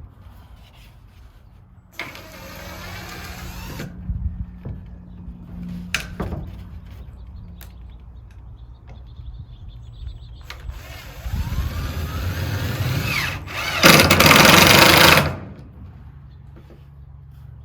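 A power drill run in three bursts: one about two seconds long near the start, then a longer run later whose pitch rises as the motor speeds up, ending in the loudest burst. A few knocks fall between the runs.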